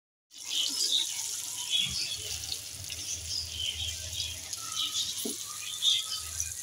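Besan-coated okra sizzling in hot oil in a frying pan, a steady hiss with small crackles.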